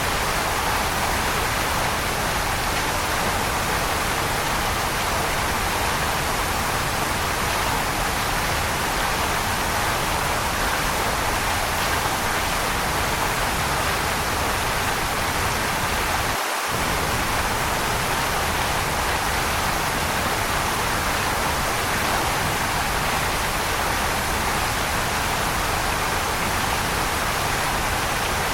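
Waterfall, a steady, even rush of falling water with no change in level. About halfway through the low rumble drops out for a moment.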